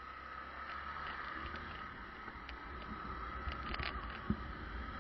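Single-cylinder Honda Bros 150 motorcycle running along a highway, a steady low rumble of engine and wind with no change in pace.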